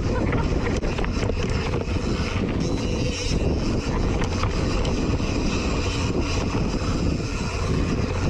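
Wind rushing over an action camera's microphone with the steady rumble of mountain bike tyres rolling over dirt trail, and small clicks and rattles from the bike throughout.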